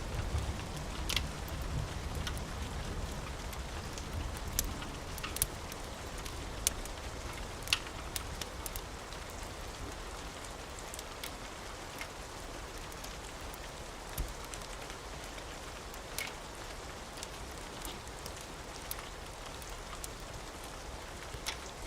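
Steady rain with scattered sharp pops and crackles of a wood fire. A low rumble dies away over the first few seconds.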